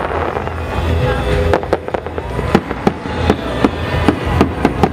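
Fireworks display: a rapid string of sharp bangs and cracks from bursting shells, coming thicker and faster in the second half, over a steady low rumble.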